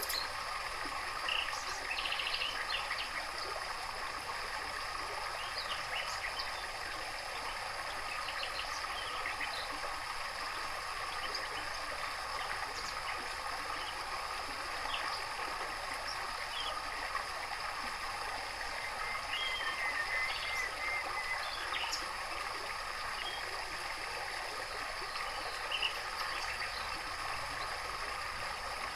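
Steady trickling water, with faint, scattered chirps of small songbirds over it. A short run of chirping comes about twenty seconds in.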